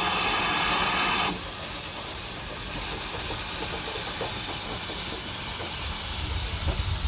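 Steam locomotive hissing loudly; the steam cuts off abruptly about a second in. A quieter hiss and a low rumble carry on, the rumble growing near the end.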